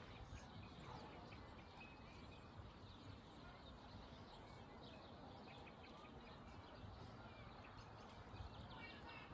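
Quiet ambience: faint, scattered bird chirps over a low steady hiss.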